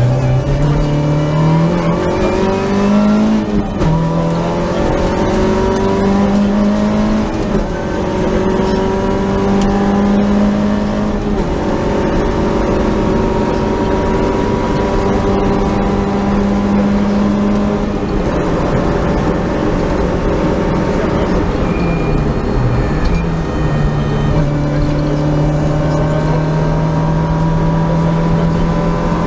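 Peugeot 205 GTi rally car's four-cylinder engine heard from inside the cabin, driven hard: the revs climb and drop at each quick upshift in the first few seconds, then stay high at speed. About three-quarters of the way through the revs fall and pick up again as the car slows for a bend and accelerates away.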